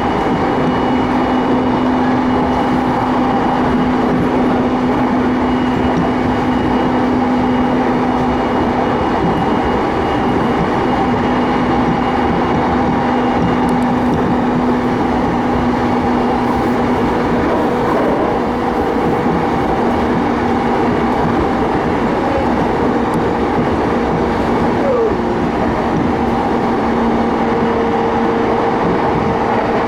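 Keiyo Line commuter train running at steady speed, heard from inside the carriage: a steady rumble of wheels on rail with a few steady hums from the running gear.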